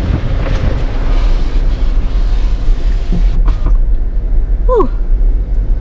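Strong wind buffeting the microphone over the steady low rumble of a Jeep Rubicon driving on a rough trail in a dust storm; the gusts ease after a few seconds. A short falling squeak is heard about five seconds in.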